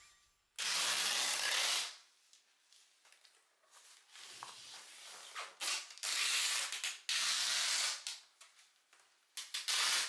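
Packing tape pulled off the roll in long strips to tape a cardboard box shut: four pulls, each lasting about a second, one near the start, two back to back past the middle and one at the end, with rustling and small taps of the tape being pressed down between them.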